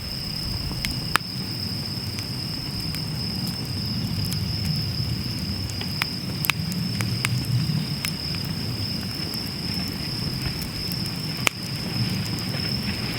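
Wood campfire burning in a Snow Peak Takibidai L fire pit: a steady low rush of flames with scattered sharp crackles and pops, the loudest about a second in and near the end.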